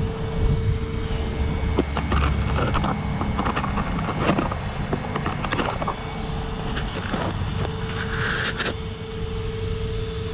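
Radio-controlled car driving over dirt and gravel: a steady motor whine and rumble, with scattered clicks and scrapes of debris and tyres.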